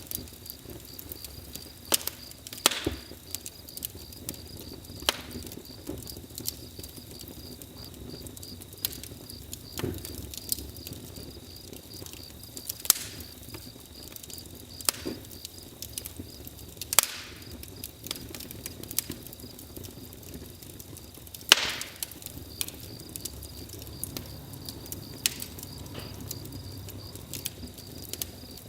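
Wood fire crackling, with irregular sharp pops from the burning wood, one louder snap past the middle. Beneath it runs a steady, pulsing chirp of crickets.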